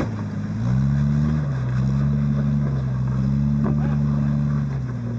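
Engine of an off-road vehicle working up a rock obstacle: it revs up about a second in, holds at higher revs with slight dips in pitch, then drops back toward idle near the end.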